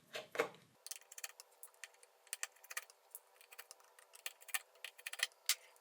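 Light, irregular clicks and ticks of small hand tools on a smartphone's plastic and metal parts, as the bottom plastic cover over the sub-board is being taken off.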